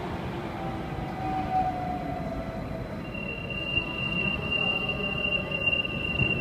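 Sydney Trains Millennium (M-set) train standing at the platform with its equipment running. About three seconds in, a steady high-pitched warning tone starts as its sliding doors close.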